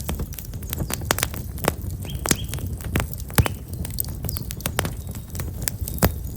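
Black locust firewood burning in an open fire, crackling with irregular sharp pops and snaps, several a second. Small birds chirp faintly a couple of times.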